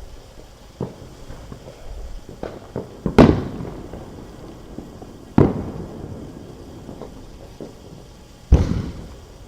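Neighbourhood fireworks going off: three loud bangs, about three, five and a half and eight and a half seconds in, each followed by a rolling echo, with smaller pops between them.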